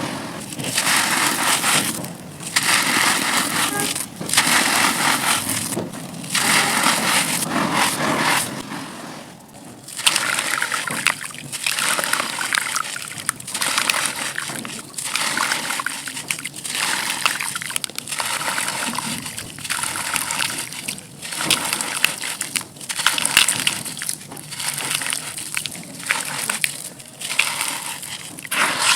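Dry compressed red dirt cookies being crushed and crumbled, a gritty crunching in repeated bursts with short pauses between. The bursts last a second or two at first, then come shorter and about once a second after a brief lull around ten seconds in.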